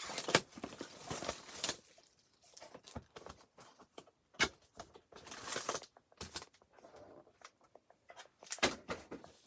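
Trading-card packaging being opened by hand: short bursts of rustling and tearing wrapper, with scattered taps and clicks of cardboard and cards being handled.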